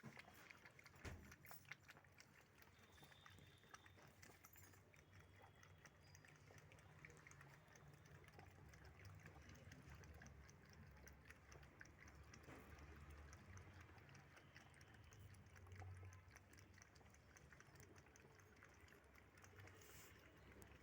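Faint, quick wet lapping of several cats drinking milk: many small clicks over a low steady rumble.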